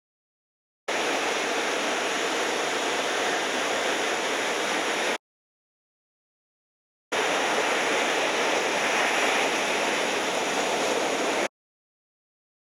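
Steady rushing noise of ocean surf and wind on the microphone, in two stretches of about four seconds each that start and cut off abruptly, with dead silence between them.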